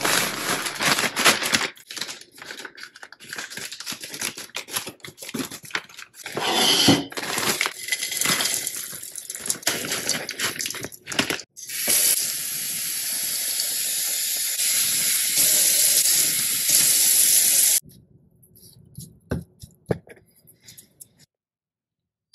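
Mesquite wood chips being handled with irregular rustling and clatter, then a steady stream of running water for about six seconds that cuts off suddenly, as the chips are put to soak. A few light clicks follow near the end.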